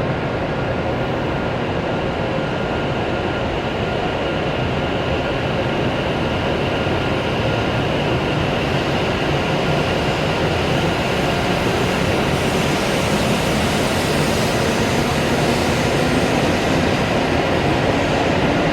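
W7 series Shinkansen train pulling away, its running noise growing gradually louder as it gathers speed, with a faint steady whine over the rumble.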